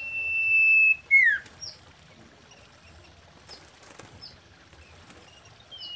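Common iora singing: a long, level whistle that swells in loudness for about a second, then a quick note sliding steeply down in pitch, followed by a few faint, short, high chips.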